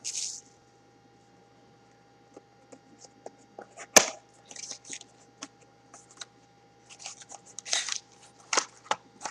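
Trading-card hobby box and its pack being handled and opened by hand: scattered crinkles, scrapes and taps of cardboard and wrapper, with one sharp snap about four seconds in.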